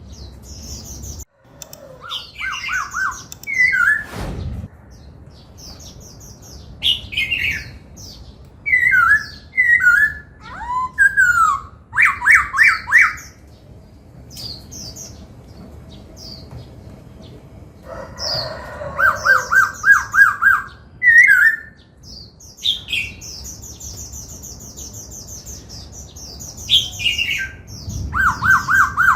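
Caged black-throated laughingthrush singing in loud bursts of varied whistled phrases, with glides, quick runs of repeated notes and higher chattering, separated by short pauses.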